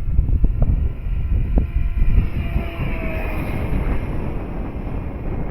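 Heavy wind buffeting the microphone, with the faint whine of the Dynam Super Cub's electric motor in the air, its pitch sliding down slowly midway as the plane goes past.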